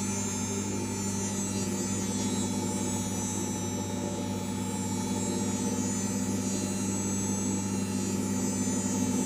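LG washing machine running with a steady, even hum.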